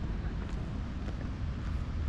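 Wind rumbling on the microphone over outdoor ambience, with a few faint ticks.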